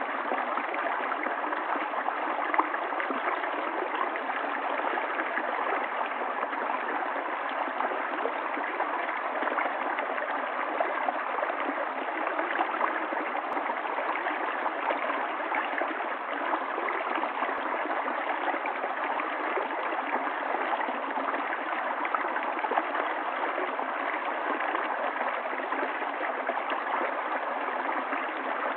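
Running water of a stream, a steady, even rush that never breaks or changes.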